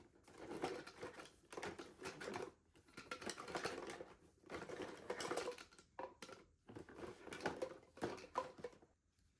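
Rustling and light clicking of small things being handled by hand, in about five bursts of a second or so each.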